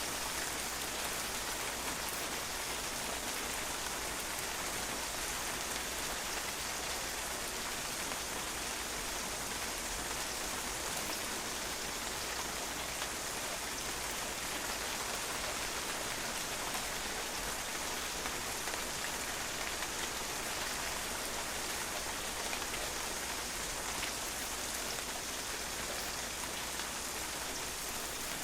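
Steady rain, drops pattering and bouncing off a patio in an even hiss that neither builds nor eases.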